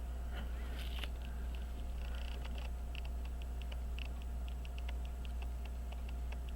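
Faint, irregular light clicks and scrapes of fine metal tools handling tiny pocket-watch parts, over a steady low electrical hum.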